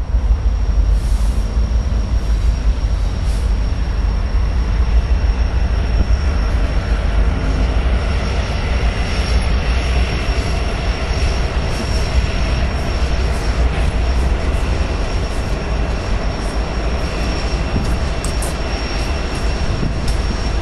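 BNSF diesel locomotives hauling a coal train, engines rumbling steadily as the train rolls through the junction, with a thin steady high squeal of wheels on the curving track.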